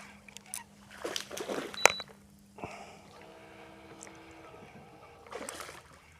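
A small barramundi splashing at the surface and water sloshing as it is brought in beside a kayak, with scattered knocks and one sharp click just under two seconds in.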